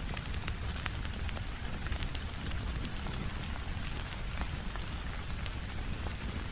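Steady rain tapping on a window mixed with the crackle of a wood fire in a fireplace: many small sharp snaps and pops scattered through a continuous hiss over a low rumble.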